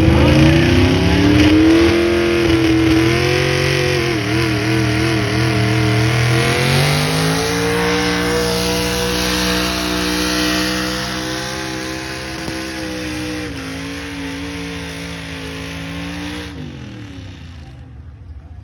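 Pulling vehicle's engine at high revs under load. Its pitch rises, wavers briefly, climbs again and holds, while the sound slowly fades. Near the end the revs drop and the engine sound cuts off as the throttle is released.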